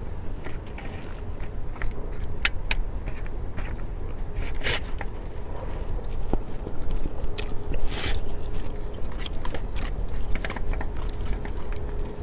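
Close-miked eating: a person biting and chewing food, with scattered mouth clicks and a few louder crackly, scraping strokes.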